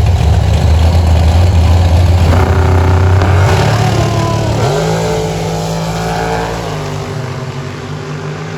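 Drag racing car's engine running hard as it accelerates down the strip, rising in pitch with a step up about halfway through, then slowly fading as it moves away.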